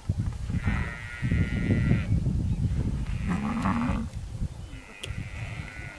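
Buffalo calling three times: a long high bawl about a second in, a lower call around three seconds in, and another high call near the end, over a steady low rumble.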